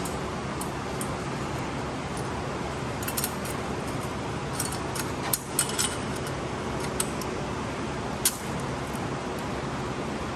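Shop fan running steadily, with scattered light metallic clinks and taps of exhaust parts being handled, the sharpest one late on.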